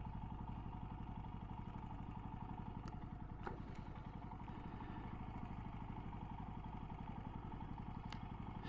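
Motorcycle engine idling steadily, with a few faint clicks.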